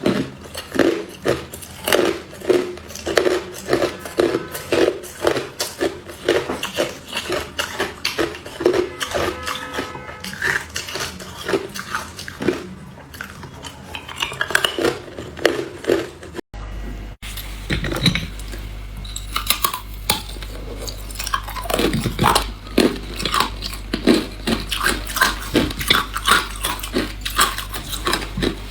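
Hard clear ice being bitten and chewed: a steady run of sharp, brittle crunches, a few a second. About sixteen seconds in the sound cuts out for a moment, and after that a low steady hum lies under the crunching.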